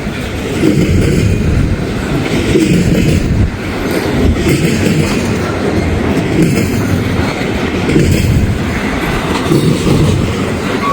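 Norfolk Southern freight train cars rolling past on the rails, with strong wind buffeting the microphone.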